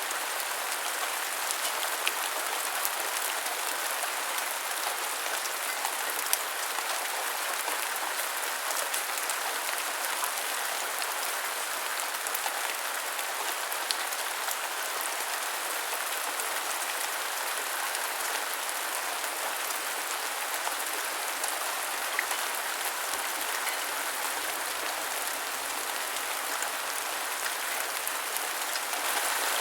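Steady rain falling, an even hiss with scattered drop ticks, and a slight swell near the end.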